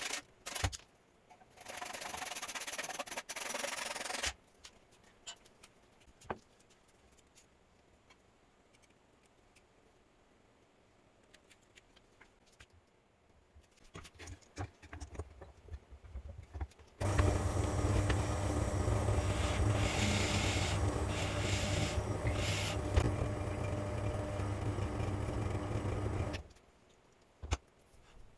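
Workshop sounds: a short spell of sanding or rubbing on wood near the start, a few light knocks, then a motorised power tool running steadily for about nine seconds before stopping abruptly.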